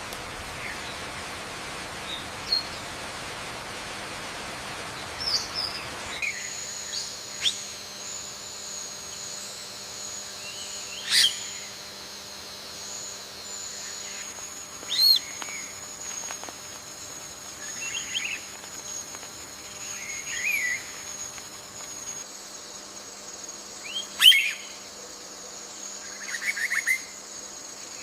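Short bird chirps and calls, a few seconds apart, over a steady high-pitched insect drone. The first six seconds hold a steady hiss instead of the drone.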